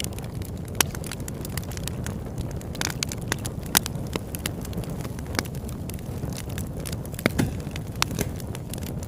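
Campfire crackling: a steady low rush of flames with sharp, irregular pops and snaps of burning wood, a few of them louder than the rest.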